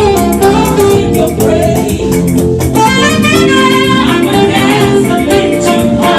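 Live band playing upbeat gospel music with a steady percussion beat and a saxophone among the lead instruments.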